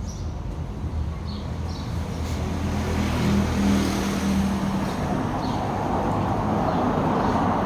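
An engine running steadily, growing gradually louder and noisier toward the end.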